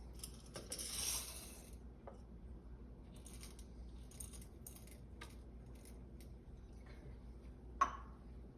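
Light handling noises of small kitchen and coffee gear: a brief rustle about a second in, then scattered light clicks and clinks, with one sharp click near the end as the loudest sound.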